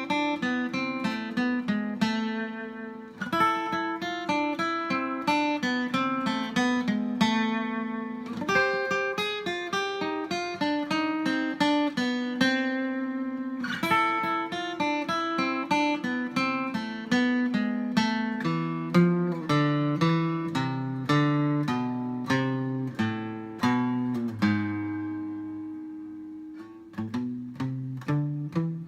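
Background music: acoustic guitar fingerpicking a quick run of plucked notes, with a held note fading in a brief pause near the end.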